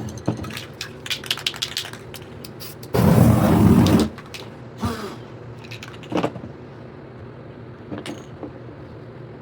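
Spray paint can in use: a quick run of clicks and rattles, then a loud one-second hiss of spray about three seconds in, followed by a few scattered clicks.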